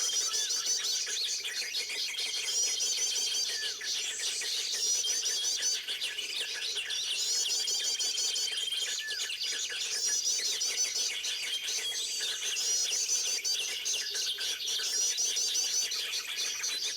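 Many small birds chirping and calling at once, a dense chorus in which the same fast twittering phrase comes back every two to three seconds.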